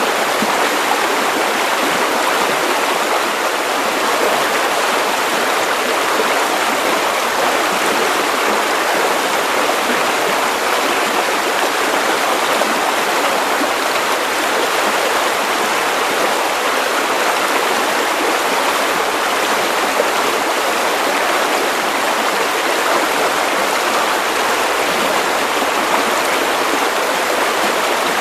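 Steady white noise for baby sleep: an even, unbroken hiss with little deep rumble, that never changes.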